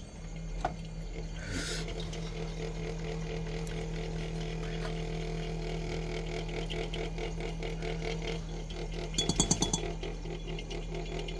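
Samsung Zipel refrigerator's condenser buzzing in a fast, steady rattle against its mounting, over the steady hum of the running machine. The owner puts the rattle down to a weakened vibration-damping mount on the condenser. A brief louder clatter comes about nine seconds in.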